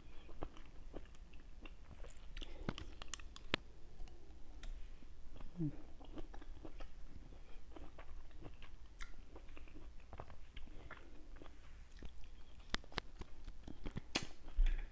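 A person chewing and biting pieces of fruit close to the microphone: scattered wet mouth clicks and smacks at an uneven pace, with a louder click and thump near the end.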